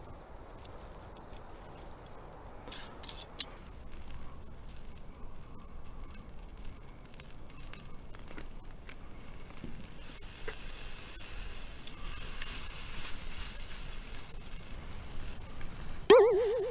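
Shiitake mushrooms sizzling on a grill over a campfire, the sizzle growing louder in the second half, with two sharp clicks about three seconds in. Near the end comes a short, wavering pitched cry, the loudest sound.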